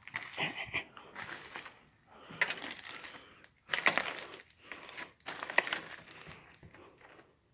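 Footsteps crunching over debris on the floor, about one step a second, each a short crackling burst.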